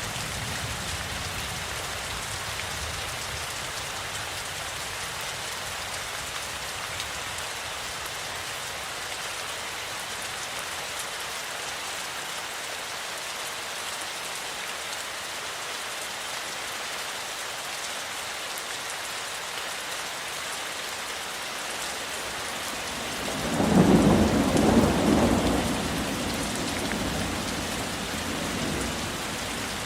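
Steady rain falling, with one rumble of thunder about three-quarters of the way through, the loudest moment, fading away over a few seconds.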